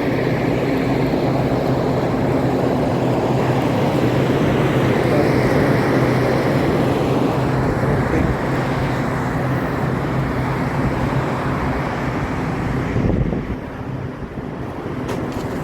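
25-ton Midea package air-conditioning unit running: a steady rush of fan air over a steady low electrical hum, easing off a little near the end. Its new compressor is drawing high amperage, which is the fault being checked.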